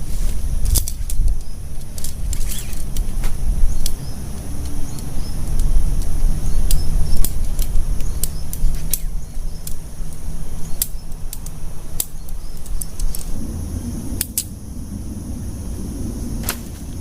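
Heavy rain on a tent, with scattered sharp taps of large drops over a steady hiss and a low rumble.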